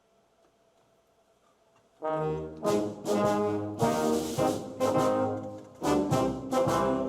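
Wind symphony (concert band) starting to play about two seconds in, after a near-silent pause: loud, brass-led music in short, accented chords.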